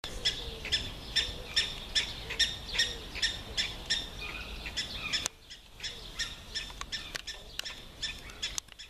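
A bird chirping over and over, about two to three short, high chirps a second. Near the middle everything suddenly gets quieter, and fainter chirping carries on.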